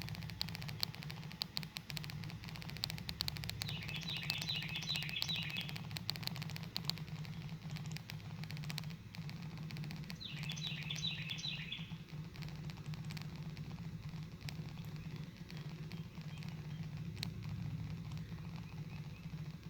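A small songbird singing two short phrases of quick repeated high notes, about six seconds apart. Under them runs a steady low hum, with scattered clicks and crackles, thickest in the first several seconds.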